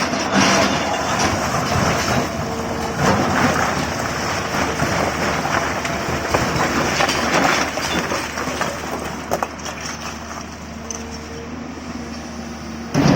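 Diesel engine of a Tata Hitachi 200 excavator running steadily, with scattered knocks and clatter.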